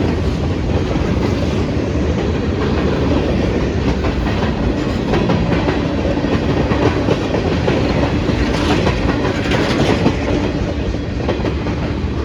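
Long freight train rolling past, its cars' wheels clicking over rail joints over a steady rumble.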